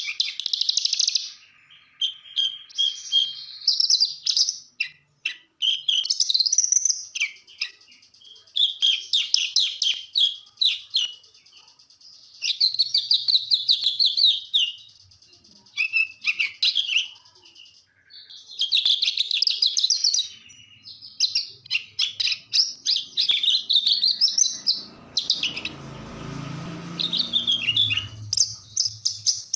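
Javan bush lark (branjangan) singing: rapid, high, twittering song phrases of a second or so each, repeated with short pauses, in the full 'gacor' song used to prompt other birds to sing. A low rumbling noise comes in briefly near the end.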